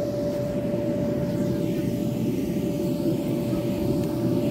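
Aircraft engine droning overhead, a steady drone with one held tone, growing slightly louder.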